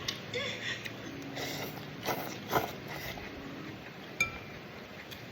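Eating sounds: a spoon or chopsticks clicking and knocking against a bowl in irregular short strokes, with one sharp ringing clink about four seconds in.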